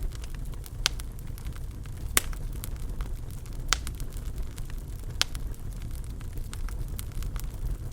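Wood fire in a fireplace crackling: a steady low rumble with scattered faint ticks and four sharp pops, each about a second and a half apart.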